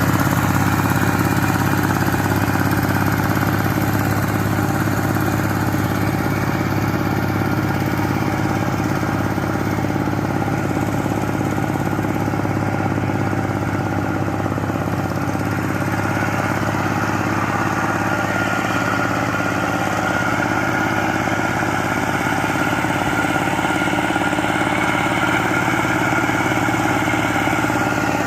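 Power tiller engine running steadily at an even speed.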